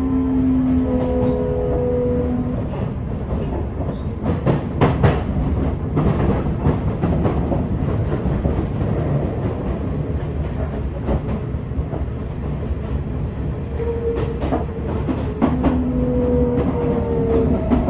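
Sotetsu 8000 series electric train running, heard from inside the car: the Hitachi GTO-VVVF inverter's steady tones sound for the first couple of seconds and come back near the end, over continuous wheel and rail rumble. A few sharp clacks from rail joints come in between, about four to six seconds in.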